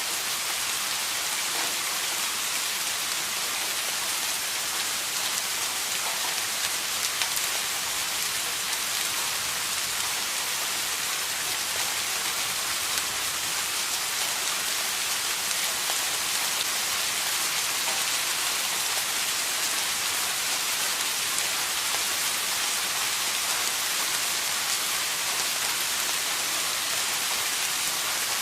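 Steady rain falling, a continuous even hiss with fine scattered drop ticks.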